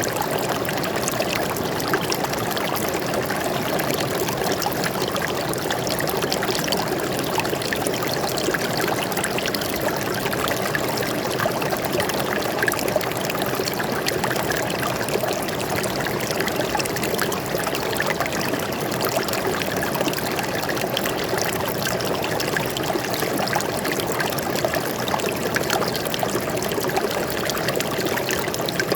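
Shallow forest stream flowing and trickling steadily, a constant rush with fine splashing and bubbling over it.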